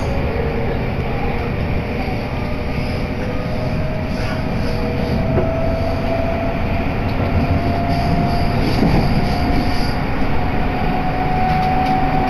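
Inside an electric commuter train: a steady rumble of wheels and running gear, with a motor whine that rises slowly and evenly in pitch as the train gathers speed.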